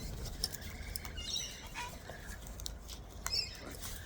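Wild cockatoos close by, giving soft short chirps and calls, with a few sharp clicks scattered through.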